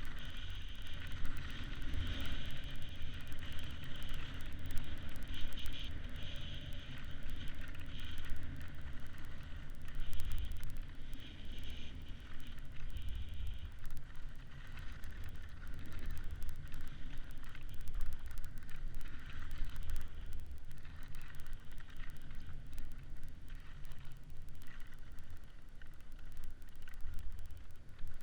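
Wind buffeting the microphone in uneven gusts, a low rumble that swells and fades, over a steady higher hiss from moving across the lake surface.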